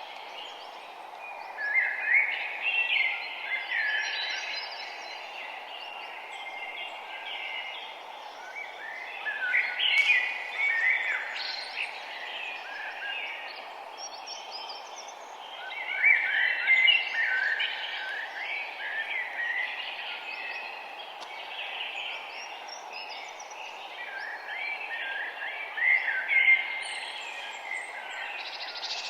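Songbirds chirping and singing in four louder spells of quick notes, over a steady background hiss.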